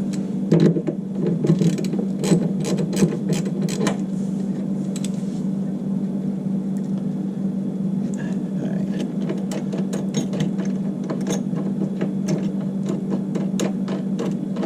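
Ratchet wrench clicking in quick runs as the bolts on a water heater's square-flange heating element are turned, the clicks thick in the first few seconds and sparser later. A steady low hum runs underneath.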